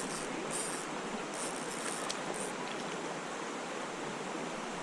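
Creek water running steadily, an even rushing hiss, with a few short high hissy bursts in the first couple of seconds.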